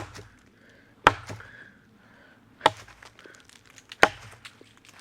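Axe striking a log four times, sharp woody chops about a second or more apart, with a few lighter taps between. The piece is too solid to split with the axe.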